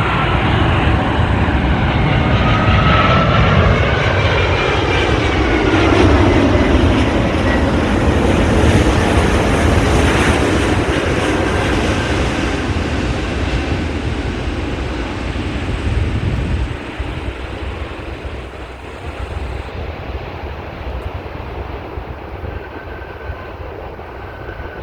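Heavy wide-body jet airliner passing close by on its landing approach: a loud engine rumble with whining tones that bend up and down in pitch as it passes. The sound drops off suddenly about 17 seconds in, leaving a quieter rumble.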